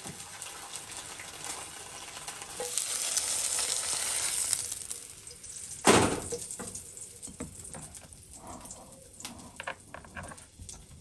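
Food sizzling in hot oil, the frying hiss growing louder for a couple of seconds and then fading. A single sharp knock about six seconds in is followed by scattered light clicks.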